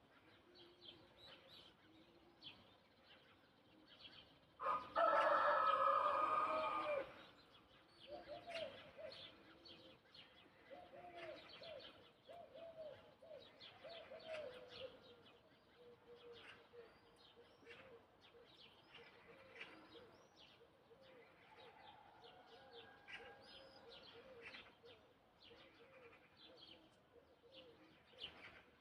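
A rooster crows once, loud, about five seconds in, for about two seconds, over the steady chirping of small birds.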